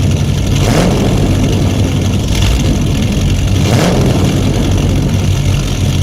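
Engine sound effect of a large motor vehicle running and revving, swelling about every one and a half seconds.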